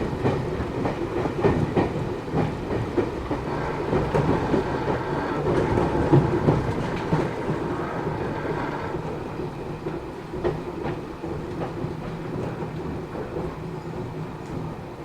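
Matsumoto Electric Railway 3000 series electric train running, heard from inside the car: a steady rumble with wheels clicking over rail joints. About halfway through, the running noise becomes quieter.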